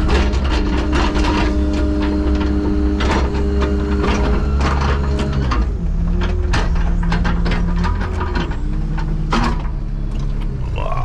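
Heavy construction machinery running: a steady low engine drone with a hydraulic whine that shifts pitch a couple of times, and frequent metallic clanks and knocks.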